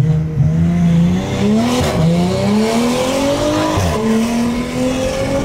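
Porsche Panamera engine under hard acceleration, heard from inside the cabin. The revs climb steadily, drop as the gearbox upshifts about two seconds in and again about four seconds in, then climb again after each shift.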